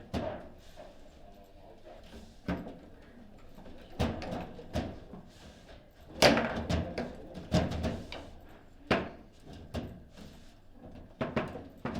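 Table football table in play: irregular hard wooden knocks and clacks of the ball and rods, the loudest cluster about six seconds in.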